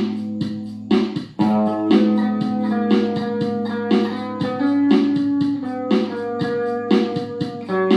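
Guitar music: a run of plucked notes over a held low note, with a brief break about a second and a half in.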